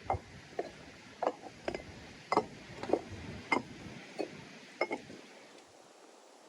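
Knife chopping on a cutting board: about ten crisp strokes at a steady, unhurried pace that stop about five seconds in.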